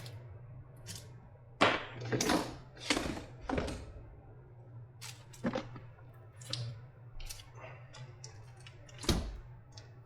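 Irregular short clicks, knocks and tearing sounds of blue insulating tape being pulled off a lithium-ion battery pack and the pack being handled, about a dozen separate sounds, the sharpest about one and a half seconds in and near the end.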